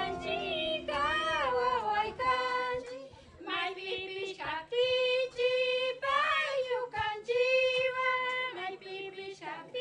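A high voice singing a slow melody, with long held notes that waver in pitch and short breaks between phrases.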